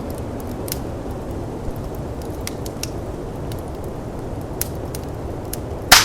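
Steady rushing snowstorm wind with a wood fire crackling over it: scattered small pops and one loud, sharp pop near the end.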